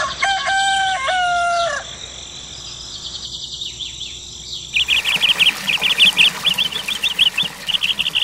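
A rooster crowing once at the start. From about five seconds in, a fast run of short, high bird chirps follows.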